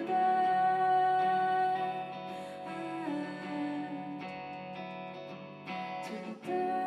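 Live band music: guitar chords ringing and strummed under sustained notes, changing chord about three seconds in and again near the end.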